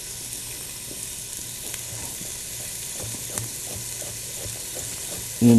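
Sliced onions and carrots sizzling in a stockpot over high heat, a steady hiss, with a few light clicks as they are stirred.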